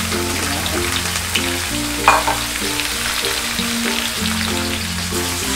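Parboiled chicken pieces sizzling in hot oil in a wok as they are stirred with a metal spatula, with a sharp clink about two seconds in. A background tune with a bass line plays under it.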